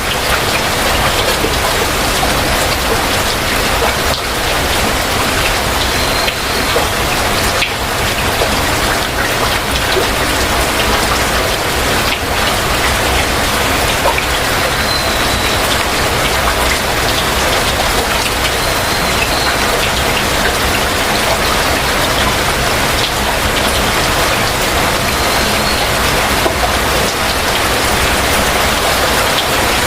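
Heavy rain falling steadily and evenly, with dense drops on surfaces. A bird's faint short high calls sound a few times through the rain.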